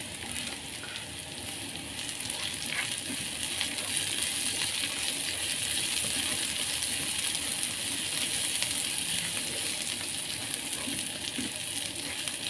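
Chilies, garlic and shallots sizzling in hot oil in a pan as they are stir-fried, with a few light clicks from the stirring. The sizzle grows louder a few seconds in.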